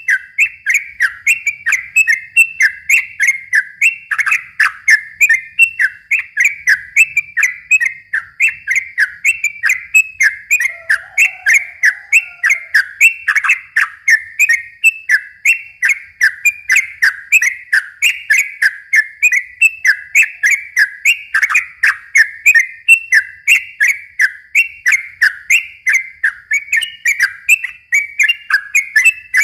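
Yellow-vented bulbul (trucukan) singing a long, unbroken run of short, fast whistled notes, about three a second.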